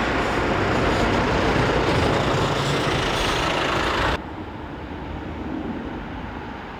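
Jet airliner on landing approach, passing with a loud, steady roar that cuts off abruptly about four seconds in. A much quieter, duller rumble follows.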